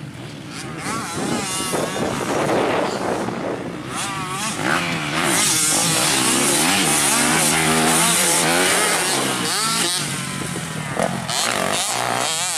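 Motocross motorcycle engine revving up and down as the bike rides the track. It grows louder about five seconds in, is loudest for a few seconds as it passes close, then fades somewhat near the end.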